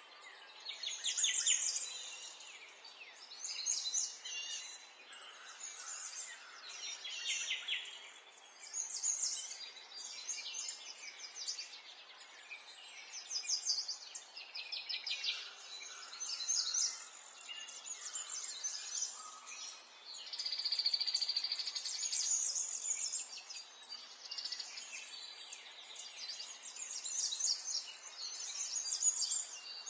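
Several songbirds singing and chirping, with bursts of rapid high trills every second or two over a faint background hiss.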